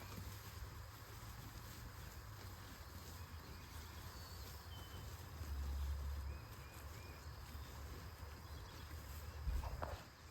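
Outdoor ambience of low wind rumble on the microphone, gusting louder about halfway through, with a few faint, short high chirps.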